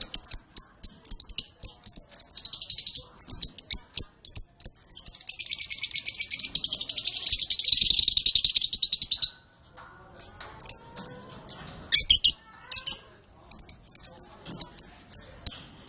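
Canaries chirping, with one long rapid warbling song phrase from about five to nine seconds in, then a short pause and quick high chirps again.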